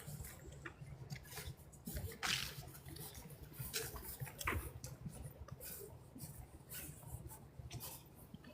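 Irregular crunches and rustles of dry fallen leaves underfoot, over a steady low rumble.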